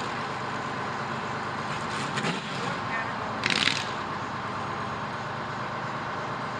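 Fire truck running, with a steady engine and road noise, and a short sharp hiss about three and a half seconds in.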